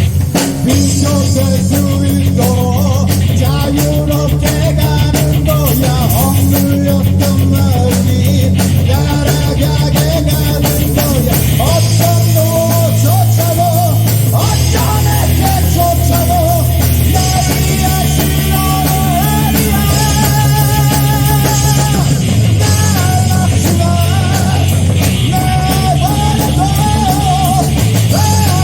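Live rock band playing a heavy metal song, a singer's voice over loud guitars, bass and drums, recorded on a phone with somewhat reduced sound quality.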